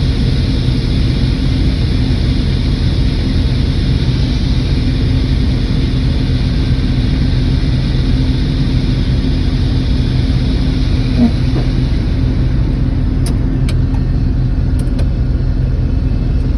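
Farm harvest machinery's diesel engine running steadily at constant speed, a continuous low drone with a steady hum. A few sharp clicks come near the end.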